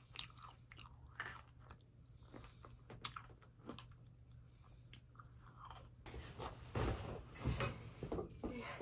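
Faint crackling clicks and rustles close to the microphone, growing louder and denser from about six seconds in.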